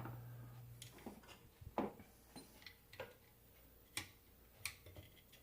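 Faint, sparse light clicks and taps, about one a second, from alternator parts being handled. A low steady hum stops about a second in.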